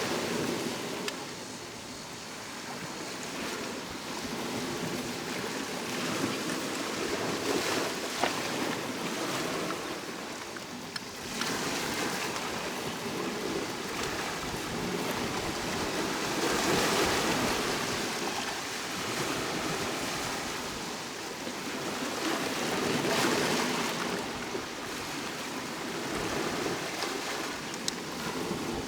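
Sea waves breaking and washing up the shore, each surge swelling and fading in turn, roughly every six seconds.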